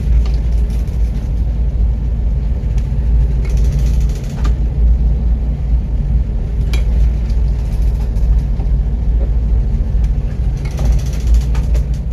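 Loud, steady low rumble with a few faint knocks through it, cutting off abruptly near the end.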